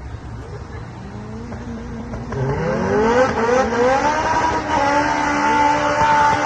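Drag race car engine accelerating hard: low engine noise for about two seconds, then the pitch climbs steeply and holds high to the end.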